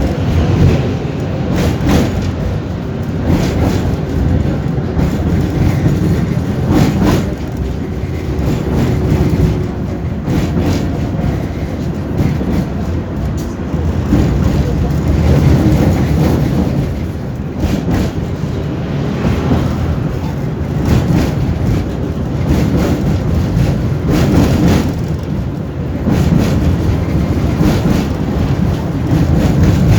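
Tram running along the track, heard from inside the car: a steady low rumble with irregular sharp clacks of the wheels over rail joints.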